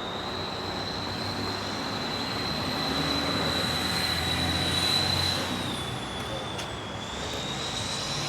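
Steady vehicle running noise with a constant high-pitched whine over it, swelling slightly midway.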